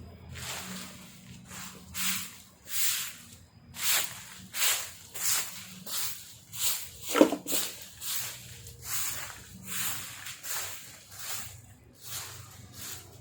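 A broom sweeping fallen leaves on the ground in repeated swishing strokes, about one and a half a second. A short, sharp squeak falling in pitch cuts in about halfway through.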